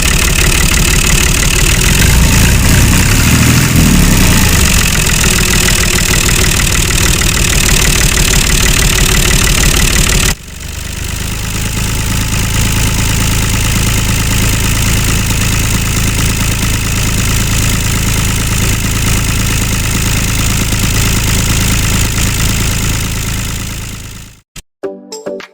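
Engine of a handmade miniature tractor running steadily. The sound breaks off sharply about ten seconds in and resumes with a steadier low hum, then fades out near the end.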